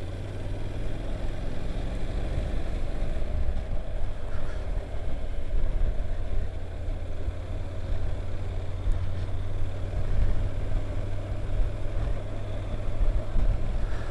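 Honda NC750X motorcycle's parallel-twin engine running steadily while riding along, a low hum under an even rush of wind and road noise.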